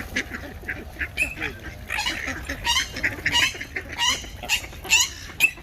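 Waterbirds crowding for food, calling in many short overlapping squawks that come thick and fast from about two seconds in.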